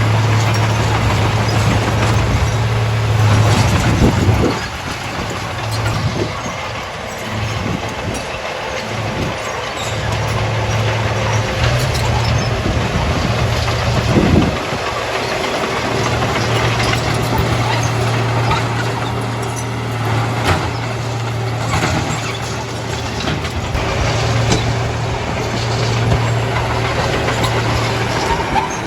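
Heavy diesel machinery running steadily, with scattered clanks and rattles: a Komatsu D31A bulldozer working stone alongside dump trucks. The engine hum drops away for a few seconds early on, then returns.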